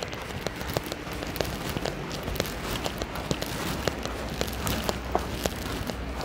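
Steady rain falling, with many irregular sharp drip ticks close by over an even wet hiss.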